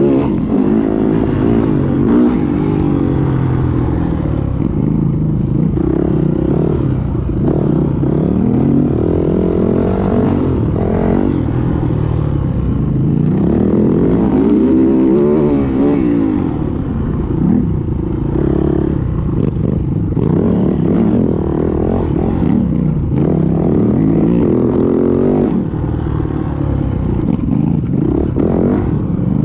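Yamaha WR450F single-cylinder four-stroke dirt bike engine ridden hard off-road. It revs up and down over and over with throttle and gear changes, with some clatter.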